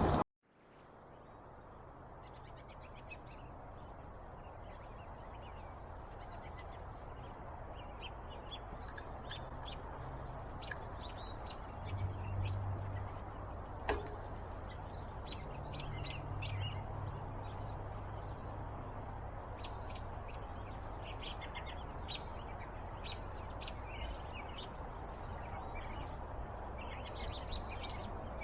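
A flock of cedar waxwings calling: many short, high chirps scattered throughout, over a steady background hiss. The sound fades in just after the start.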